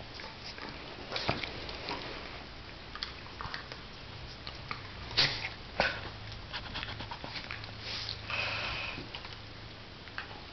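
Two dogs, a Jack Russell terrier and a pit bull mix, play-fighting: quick sniffs and breaths with scattered light clicks and scuffles, two sharper knocks about five and six seconds in, and a longer noisy stretch about eight seconds in.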